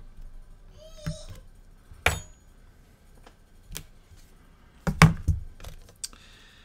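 A few sharp knocks and clicks of small objects being handled and set down on a workbench, the loudest a quick cluster about five seconds in, with a brief squeak about a second in.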